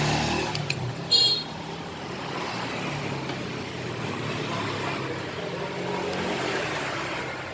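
Kawasaki ZX25R's 250 cc inline-four running steadily at idle through a newly fitted aftermarket exhaust, with the catalytic converter removed. A brief high-pitched squeak cuts in about a second in.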